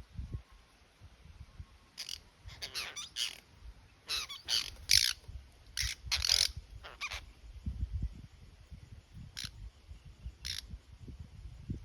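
Apostlebirds giving short, harsh, rasping calls, a burst of them in quick succession in the first half, then two single calls later.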